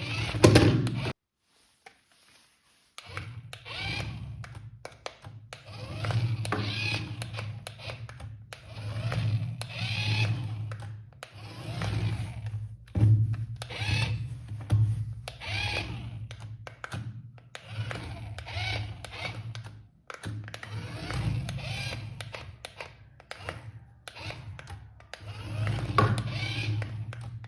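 Small electric motors and plastic gears of a remote-control toy vehicle whirring in repeated bursts of one to two seconds over a steady low hum, with a short break near the start.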